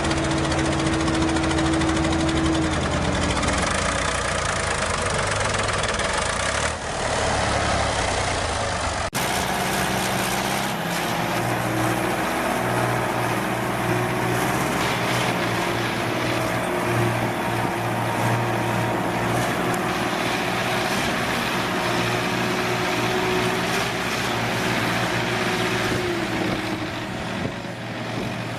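Heavy tractor diesel engines running and revving, with the pitch shifting up and down. The sound changes abruptly about 9 seconds in as a different engine takes over.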